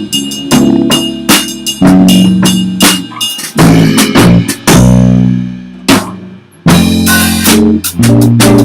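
A band of drum kit, bass guitar and guitar playing an instrumental passage with steady drum hits. About six seconds in the band stops short on a held bass note, then comes back in together after a brief pause.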